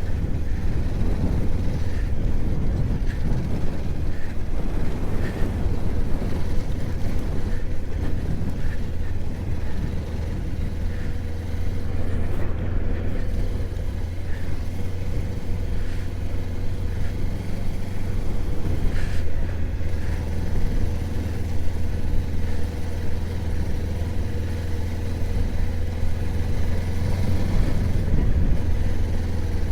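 Mutt motorcycle engine running steadily at a low, even pitch as the bike is ridden along a dirt trail.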